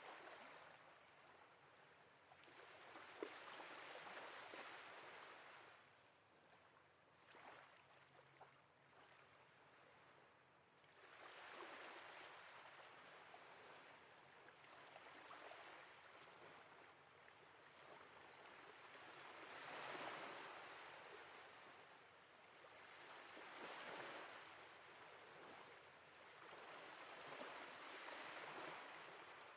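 Faint sea waves washing in and drawing back, swelling and fading about every four seconds.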